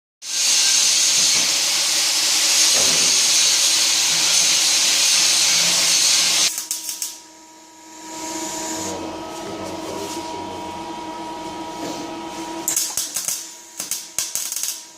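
Welding on a ZF 6HP26 automatic transmission's torque converter: a loud, steady welding hiss for about six and a half seconds that cuts off sharply, then a machine hum with a few short crackling bursts near the end.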